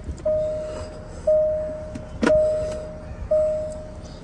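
Range Rover's warning chime: a single-pitched ding repeating about once a second, each note fading away, with a sharp click about two seconds in.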